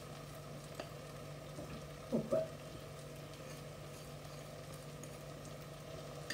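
Onion-tomato masala frying gently in a stainless steel kadai, a faint steady sizzle over a low hum, with two short louder sounds about two seconds in.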